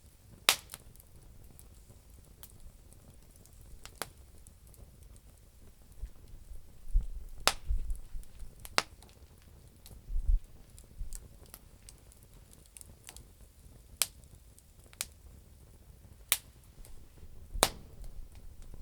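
Campfire of damp firewood crackling: a dozen or so sharp, irregular pops over a faint hiss, with a couple of brief low rumbles midway.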